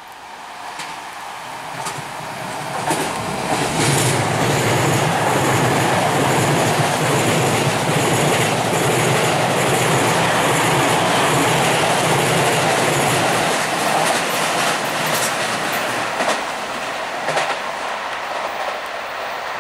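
E217 series electric commuter train accelerating past, with wheels clacking over rail joints and a steady low hum. It builds over the first few seconds, stays loudest for about ten seconds, then eases off somewhat near the end.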